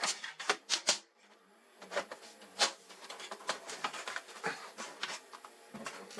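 A run of sharp clicks and light knocks from hard parts being handled: a quick cluster in the first second, two louder clicks a little after two seconds in, then lighter scattered ticks.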